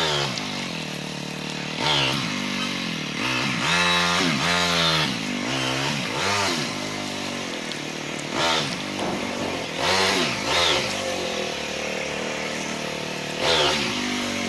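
Motorcycle engine running while riding. Its pitch rises and falls again and again as the throttle is opened and closed, with short rises in quick succession.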